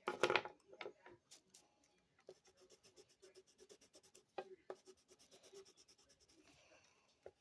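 Drawing strokes scratching on paper. One loud scratchy stroke comes at the start, then a run of quick short strokes, about five a second, from about two seconds in, with a couple of sharp taps.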